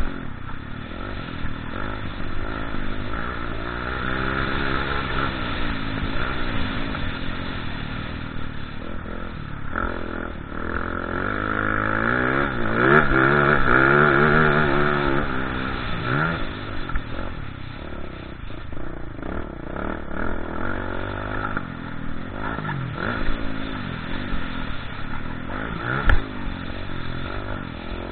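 Motocross bike engine revving up and falling back again and again as it rides, its pitch rising and dropping, loudest for several seconds about halfway through. A short sharp knock near the end.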